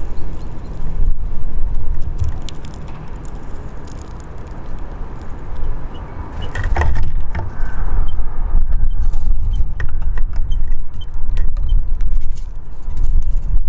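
Wind buffeting the microphone: a heavy low rumble that swells and eases, dropping off for a few seconds in the first half. Scattered small clicks and taps run through it, with a brief louder clatter about halfway.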